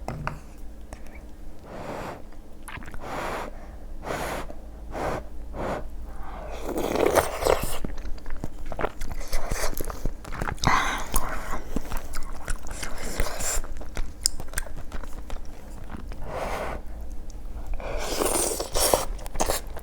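A person eating close to the microphone: biting and chewing food, with many short clicks and mouth sounds, and a few longer, louder stretches about seven, eleven and eighteen seconds in.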